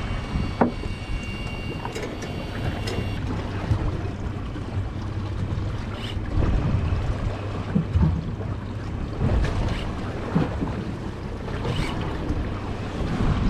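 Boat's engine running with a steady low hum, wind on the microphone and water washing against the hull, with a few scattered knocks.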